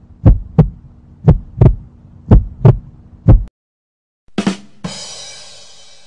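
Heartbeat sound effect: slow double thumps, about one beat a second, over a steady low hum, stopping about three and a half seconds in. Near the end, a short hit is followed by a high, ringing shimmer that slowly fades.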